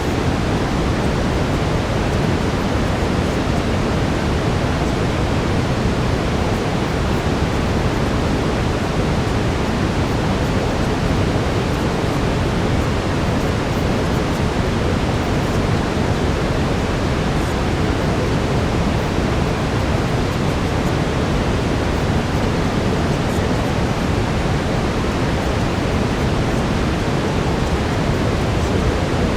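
Steady brown noise: an even, unbroken deep rushing hiss, heaviest in the low end.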